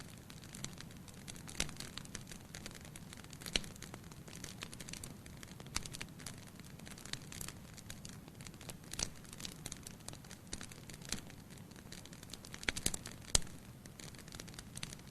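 Firewood burning in a fireplace: irregular crackles and pops over a steady low hiss of the flames, with a quick cluster of louder pops near the end.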